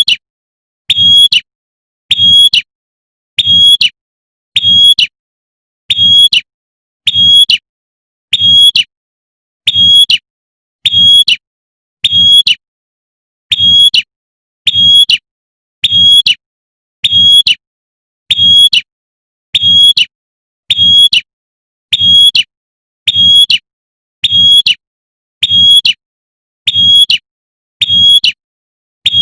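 Female prenjak (prinia) giving its sharp 'tembakan' call: short loud bursts repeated evenly, about one every 1.2 seconds.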